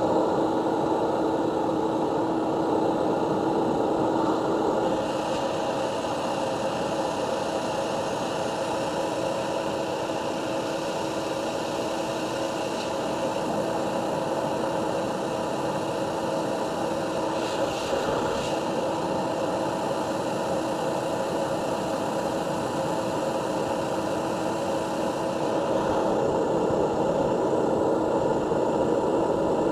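Steady mechanical whir with a hum from a running motor; one hum tone drops out about five seconds in.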